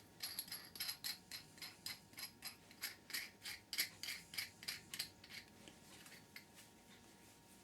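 Ratchet spanner clicking in quick, even strokes, about five a second, as a nut is run down onto a bolt with its washer. The clicking slows to a few scattered clicks after about five seconds.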